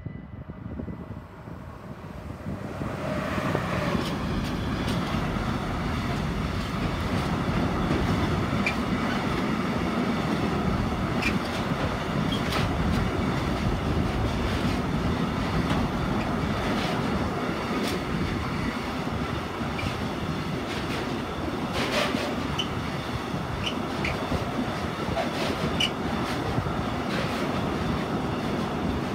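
Container freight train hauled by a Vectron locomotive passing close by: the sound swells as the locomotive arrives about three seconds in, then the long string of container wagons rolls past with a steady rumble of wheels on rail. Wheels click over rail joints throughout, with a few brief high wheel squeals.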